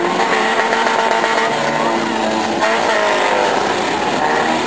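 Several demolition derby cars' engines running and revving together under hard throttle, their pitches rising and falling.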